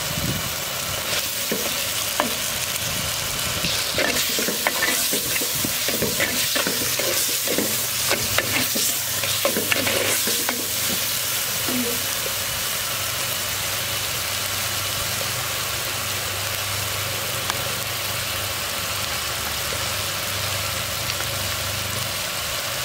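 Onion-tomato masala frying and sizzling in a clay pot while a ladle stirs and scrapes it, the scraping strokes irregular through the first half. A low steady hum sits under the sizzle from about seven seconds in.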